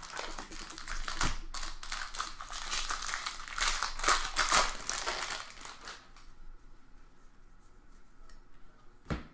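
A card-pack wrapper crinkling as it is torn open, and cards being handled in a dense run of rapid crackles and rustles that thins out after about six seconds. One sharp click comes near the end.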